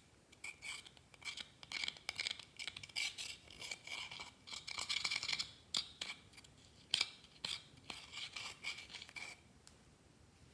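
Clear slime being kneaded and stretched by hand, a dense run of sticky clicks and small pops that stops about nine seconds in.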